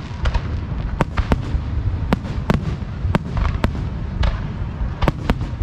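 Fireworks display at close range: a dozen or so sharp bangs from bursting shells at irregular intervals, over a continuous low rumble.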